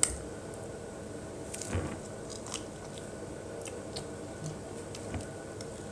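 Biting and chewing fried chicken drumstick meat: scattered short, wet clicks and smacks, with a sharp click right at the start, over a faint steady hum.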